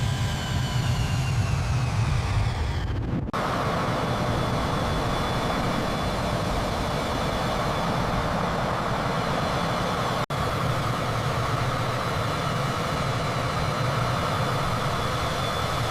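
Jet aircraft engine noise. For the first three seconds it is a steady rush under a slowly falling whine. After a sudden cut it becomes a steady rush with a constant high whine, broken by a brief dropout about ten seconds in.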